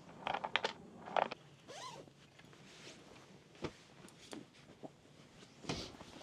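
Quiet handling noises: a quick run of small clicks in the first second or so, then scattered short scrapes and clicks, with a brief rustling burst near the end.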